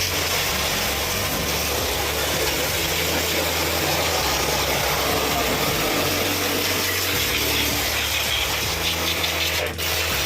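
A motor-driven machine running steadily, with a constant hiss over a low hum. The sound dips briefly near the end.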